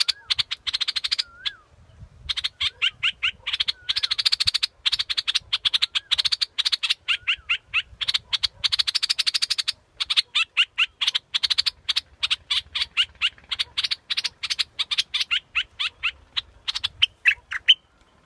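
Bulbul calling in fast runs of short, sharp notes mixed with little rising whistles, with two brief pauses, stopping just before the end. This is the call used as a lure to draw wild birds.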